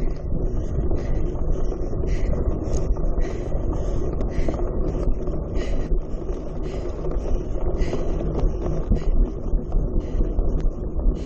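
Steady low rumble of wind buffeting the microphone, with a short hiss about once a second.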